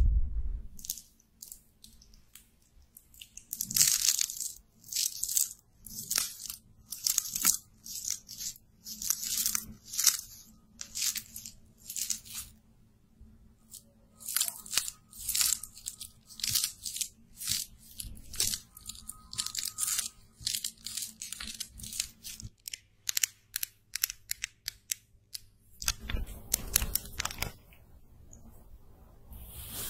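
Close-miked makeup handling: a run of short, crunchy, scratchy strokes, about one or two a second, falling quiet for a few seconds about two-thirds through, then a louder rustle near the end.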